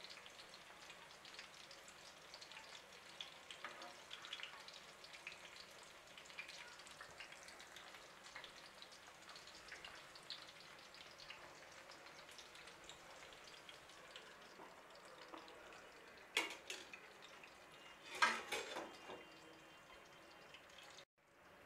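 Breaded potato slices shallow-frying in oil in a pan, a steady low sizzle with many small crackles. Two louder clatters come near the end as the pan is handled and covered with its glass lid.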